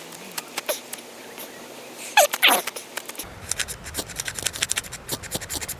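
A ferro rod (fire steel) scraped again and again with a striker, a series of short sharp scrapes that come faster in the second half, with a brief falling squeal about two seconds in. The sparks are not lighting the tinder, which the striker blames on the cheap fire steel.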